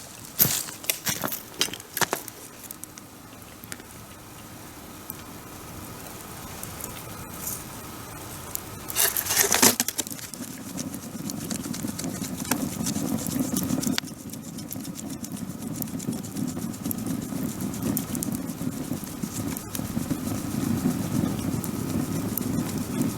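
Wood campfire burning, with scattered crackles and pops. About nine seconds in comes a brief loud rush of noise, and after it a steady low rumble runs under the fire.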